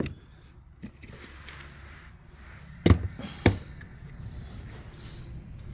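A few knocks, the two loudest sharp and about half a second apart near the middle, with lighter ones before them.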